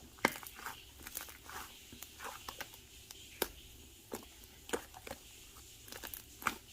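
Slime being pressed and squeezed by hand, giving irregular sticky clicks and small pops.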